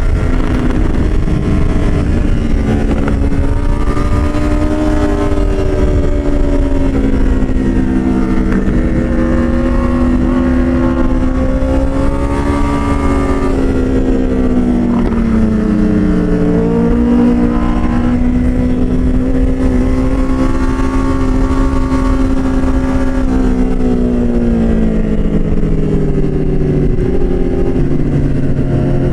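Motorcycle engine running under way, its pitch slowly rising and falling as the throttle and speed change, over a steady rush of wind noise.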